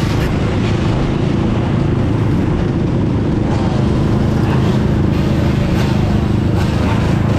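Steady, loud wind and road rumble on the microphone of a GoPro riding along on a Sur-Ron electric dirt bike.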